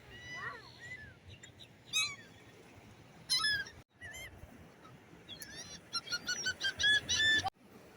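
Gulls calling: scattered squawks, then a quick run of repeated short calls in the last few seconds.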